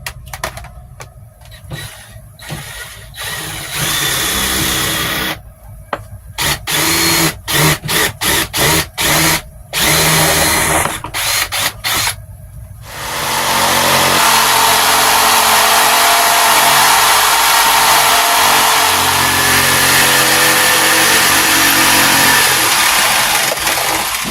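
A power tool, likely a drill, run in a quick series of short trigger bursts, then held running steadily for about eleven seconds near the end, while mounting and wiring a solar charge controller and switch on a sailboat.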